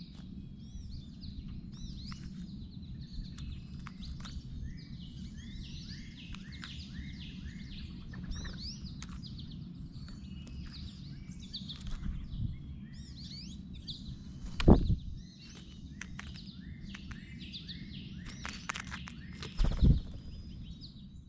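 Wild birds chirping and calling in quick, overlapping short notes over a low steady rumble, with two loud thumps, one about two-thirds of the way through and one near the end.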